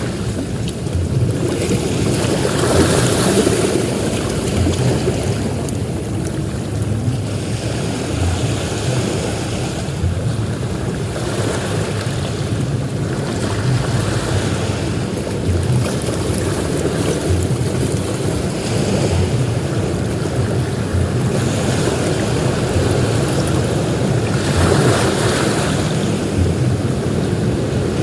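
Ocean surf breaking on a beach: a continuous low rumble of water, with a hissing wash of a breaking wave swelling up every few seconds.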